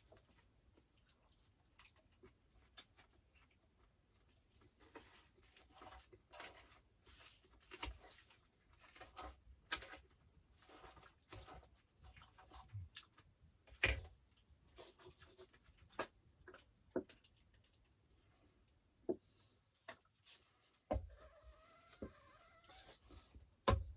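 Faint, scattered clicks and knocks of small objects being handled in a small room, a few of them sharper, with a brief squeaky wavering sound near the end.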